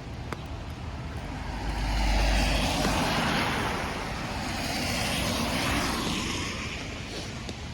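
A vehicle passing on the wet street: a rushing tyre hiss swells about a second and a half in, peaks twice and fades near the end, over the steady hiss of falling rain.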